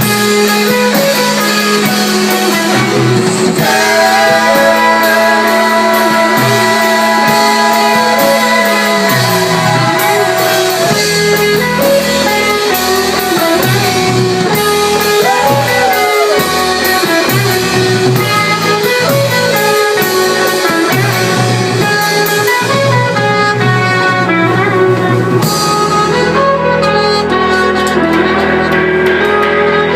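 Live rock band playing loudly, with electric guitar and singing.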